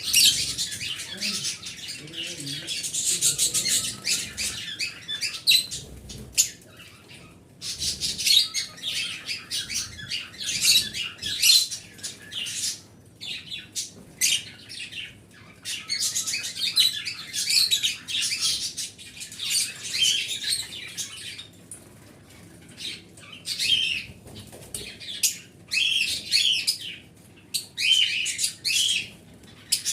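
Small pet birds chirping and twittering in dense, high-pitched bouts of chatter, broken by short lulls.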